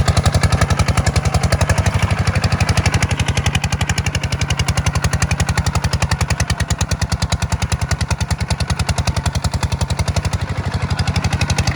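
Kubota tractor's diesel engine running steadily, with an even, rapid pulsing beat.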